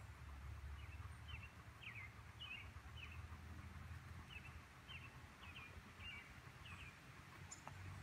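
A small bird chirping faintly in the background: short, high chirps repeated about twice a second, over a low steady outdoor rumble.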